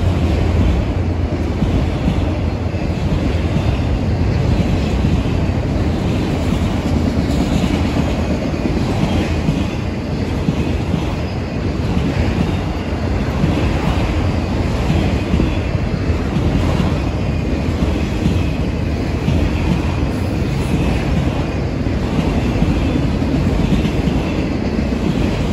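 Freight train of autorack cars rolling past close by: the steady rumble of steel wheels on the rails, with no break in it.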